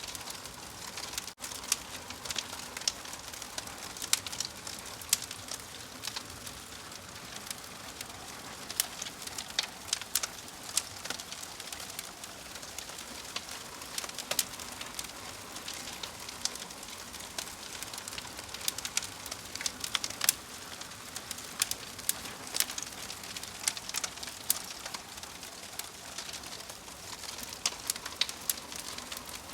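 Wood fire crackling and hissing steadily, with frequent sharp, irregular pops and snaps. There is a momentary dropout just over a second in.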